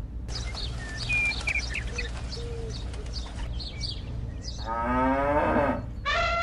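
A cow mooing once, about five seconds in, after a run of short bird chirps, over a steady low hum.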